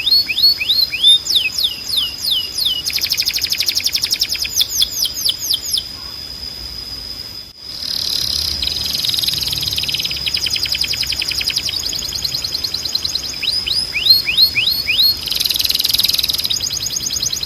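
Timbrado canary singing: series of quick falling whistles and fast rolling trills over a steady high note, with a brief break partway through.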